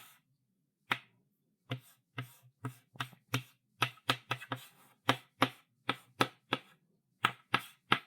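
Chalk writing on a chalkboard: a quick, uneven run of short scratchy strokes and taps, each with a low knock from the board. There is a pause of about a second at the start and a brief one near the end.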